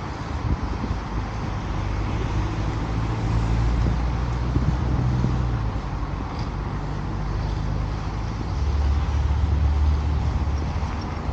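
Road traffic: vehicle engines running and passing, with a low rumble that swells twice.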